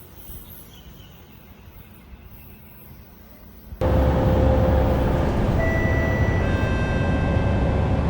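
Faint background, then about four seconds in a sudden cut to a loud train passing close, a heavy rumble with several steady whining tones over it.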